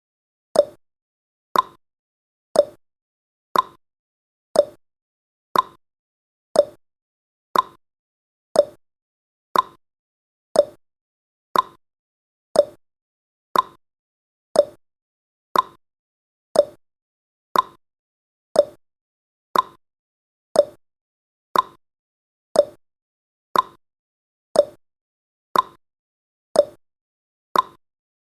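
Clock-style ticking sound effect of a countdown timer: one sharp tick every second, steady and even, seemingly alternating higher and lower like a tick-tock.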